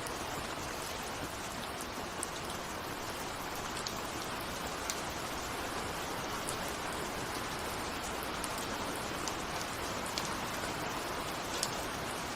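Steady rain with scattered individual raindrops ticking against a window.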